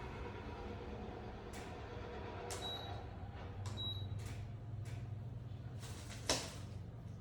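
Items being handled while unboxing: about six short scrapes and rustles, two with a brief high squeak, the loudest about six seconds in, over a steady low hum.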